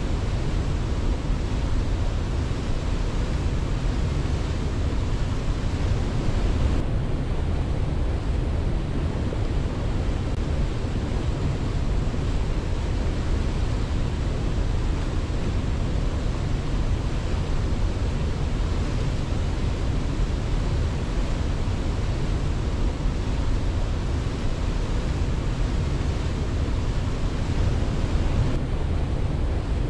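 Steady rush of water, an even unbroken noise strongest in the low range, with no birds or other calls standing out.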